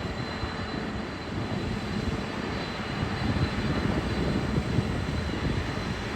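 Jet engines of a Boeing 747-400F freighter running through a landing: a steady, heavy rumble with a faint steady whine on top.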